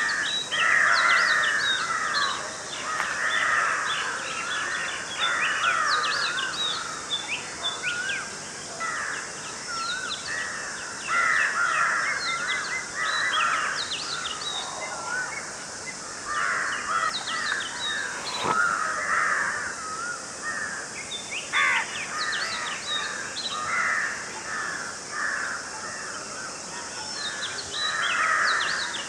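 Several birds calling outdoors: repeated bursts of calls, some harsh and crow-like, with quick higher chirps between them, over a steady high hiss.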